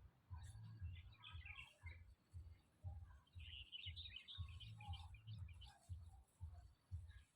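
Faint bird chirping in quick clusters, over an uneven, pulsing low rumble.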